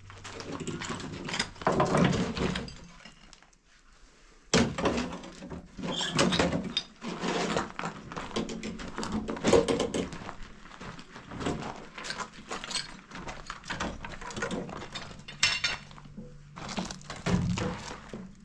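Irregular knocks and clattering of hard objects being handled, with a short pause about three seconds in.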